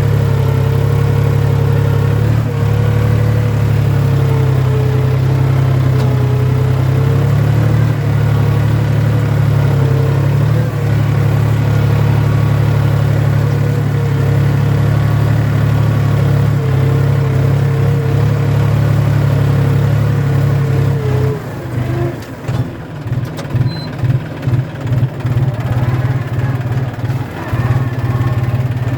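Tractor engine running steadily under load while plowing, with a wavering whine above the engine note. About 21 seconds in the sound turns choppy, rising and dropping about twice a second.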